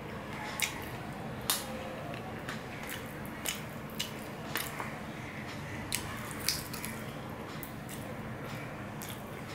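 Close-up eating sounds: chewing, with a dozen or so sharp mouth smacks and clicks at irregular intervals.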